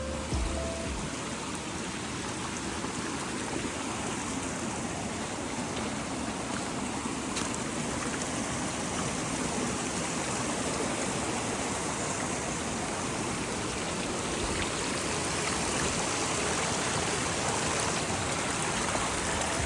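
Rain and hail falling steadily in a thunderstorm, an even hissing patter with an occasional sharper tick.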